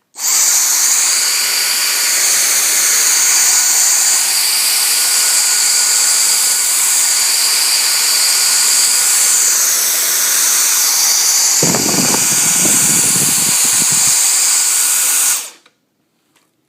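Dyson DC44 Animal cordless stick vacuum switched on, its motor running with a steady high-pitched whine, then switched off and winding down near the end. For about two seconds late in the run, a lower rumble joins the whine.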